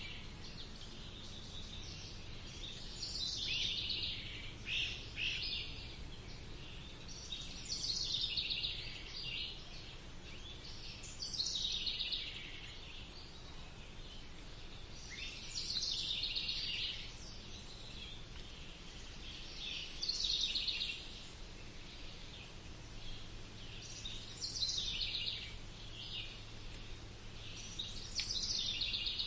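Songbird song: a short, bright phrase that sweeps downward in pitch, repeated about every four seconds over a faint steady low rumble.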